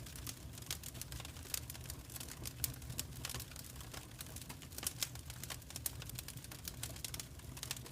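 Wood fire in a fireplace crackling, with irregular sharp pops over a low steady rumble of the flames.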